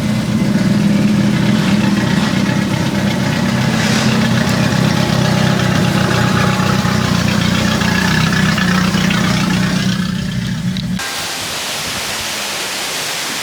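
A vehicle engine running steadily with a low hum. It cuts off abruptly near the end, and an even, steady hiss follows.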